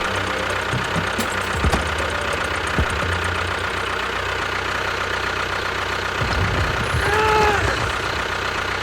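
Tractor engine running steadily with a knocking idle. A short wavering pitched call cuts in about seven seconds in.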